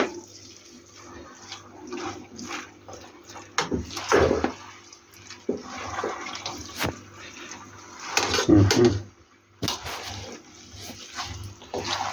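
Spaghetti and chicken curry being stirred and tossed in a pan: irregular scraping and clinks of the utensil against the pan over a steady hiss.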